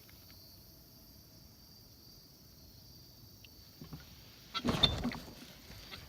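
Quiet outdoor ambience with a faint steady high insect drone. About four and a half seconds in comes a short burst of clattering and rustling, the loudest thing here.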